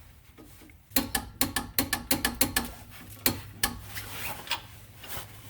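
Ratchet wrench clicking as a 15 mm nut on an aftermarket sway bar link is tightened to torque. The clicks start about a second in, come quickly at first, then slow to a few spaced clicks.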